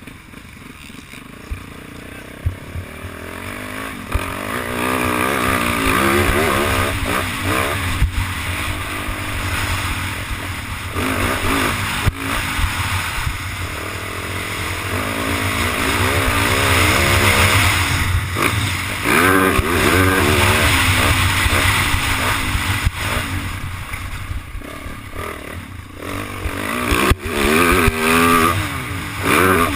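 Yamaha YZ450 motocross bike engine revving up and down through the gears while riding, its pitch rising and falling again and again, with a few sharp knocks along the way.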